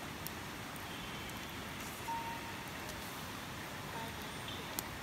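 Steady rush of flowing river water, with a couple of sharp clicks and a brief high chirp about two seconds in.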